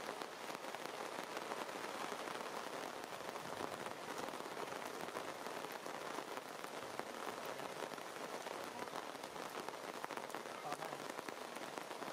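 Steady rain falling: an even patter of many small drops.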